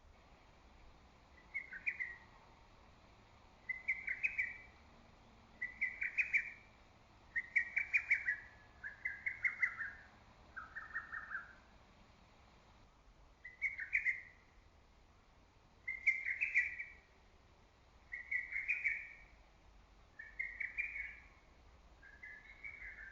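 Lesser cuckoo (hototogisu) singing: short, rapid stuttering phrases repeated about every two seconds, with a brief pause a little past the middle.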